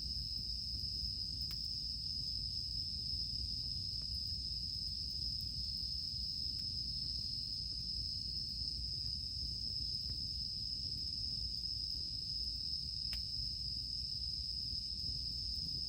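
Cicadas singing in a steady, unbroken high drone, over a low rumble, with a few faint pops from a wood campfire.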